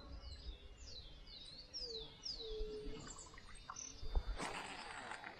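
Birds calling in the riverside trees: a quick run of short, high whistles, each sliding downward, in the first half. About four seconds in there is a knock, followed by about a second of rushing noise.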